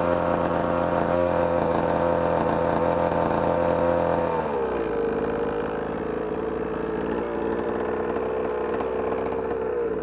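Dirt/pit bike engine running through a homemade muffler. It holds a steady speed, then about four seconds in the revs drop and it settles at a lower, steady speed.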